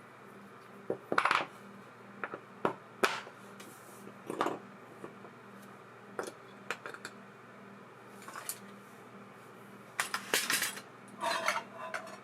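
Small metal parts of an ABU Ambassadeur 2500C baitcasting reel clinking and clicking as they are handled on a workbench. The knocks are irregular, about a dozen over the stretch, with a brief ringing clink near the end.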